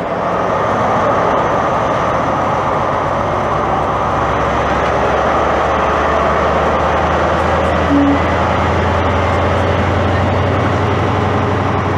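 Class 43 HST power car diesel engines under power as the train pulls out, with a low steady engine note building from about four seconds in as the rear power car comes past. There is a brief short tone about eight seconds in.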